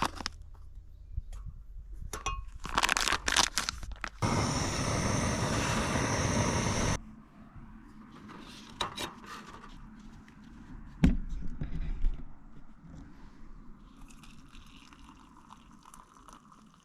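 Hot chocolate being made by hand: a packet crinkling and tearing, then a steady pour for about three seconds that stops abruptly, followed by quieter handling and a sharp knock of a spoon or mug.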